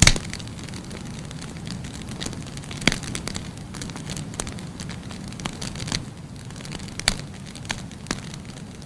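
Firewood burning in a fireplace: a steady low rush of flame with irregular sharp crackles and pops, the loudest at the very start and about three and seven seconds in.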